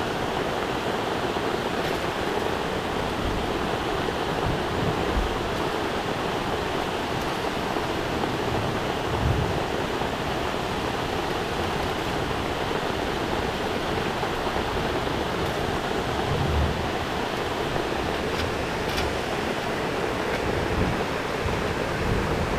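Steady rushing of water from a waterfall, with a couple of brief low bumps.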